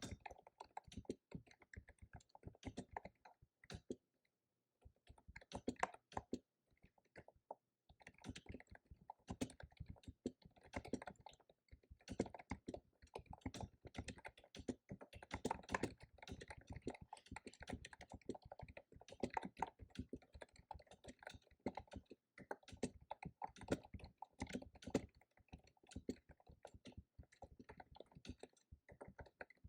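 Computer keyboard typing in fast runs of key clicks, with two short pauses in the first eight seconds.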